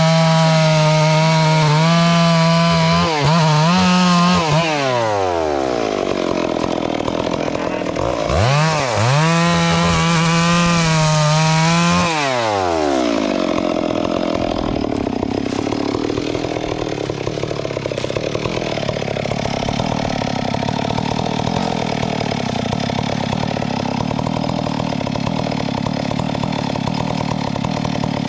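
Two-stroke chainsaw running at high revs, the throttle let off twice so the pitch falls away, about a quarter of the way in and again near the middle, then idling.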